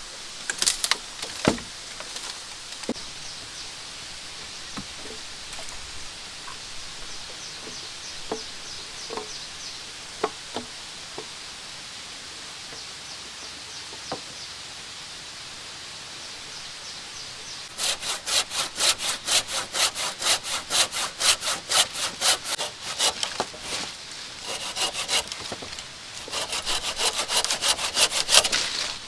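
Scattered light knocks and clicks over a steady hiss, then, about two-thirds of the way in, a hand saw cutting bamboo in quick, even strokes, about three to four a second. The sawing stops briefly and starts again near the end.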